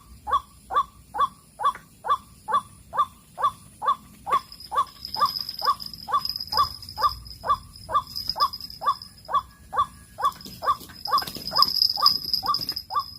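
White-breasted waterhen (ruak-ruak) calling: a monotonous run of short, downward-sliding notes, about two a second. A steady high-pitched whine joins about four seconds in.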